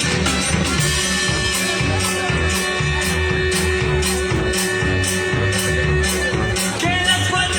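A band playing an instrumental passage with bass and drums keeping a steady beat. A single held note sounds over it from about a second in until shortly before the end.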